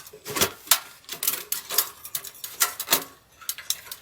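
Irregular sharp clicks and light taps, several a second at uneven spacing.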